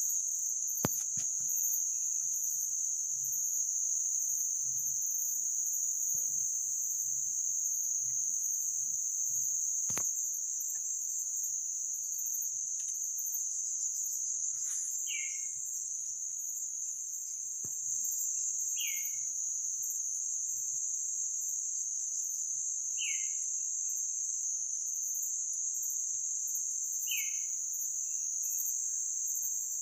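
Steady, high-pitched chorus of forest insects such as crickets, shrilling without a break. From about halfway through, a short falling call sounds about every four seconds, along with a few sharp clicks.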